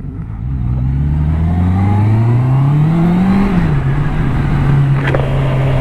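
Honda CBR650R's inline-four engine accelerating, its note rising steadily for about three seconds, then dropping back and holding a steady pitch; a lovely sound.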